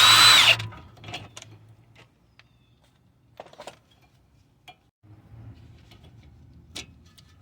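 A cordless power tool whirs briefly with a rising whine as a 12 mm bolt on the brake-line and ABS-sensor bracket is spun out. It is followed by scattered light metallic clinks of tools and parts being handled.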